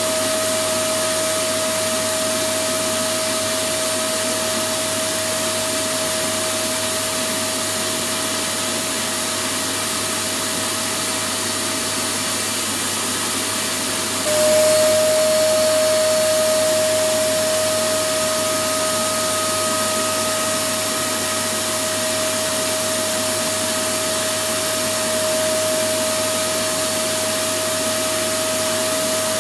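Electric vacuum cleaner running continuously: a steady rush of air with a constant whine from the motor. About halfway through, the whine drops slightly in pitch as the sound briefly gets louder, then it settles back to the same steady run.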